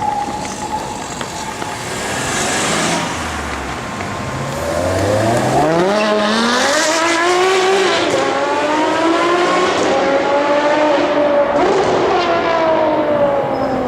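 Ferrari 599's V12 engine accelerating hard, its pitch climbing steeply. There is a gear change about eight seconds in, then a slower climb, and the pitch falls away near the end.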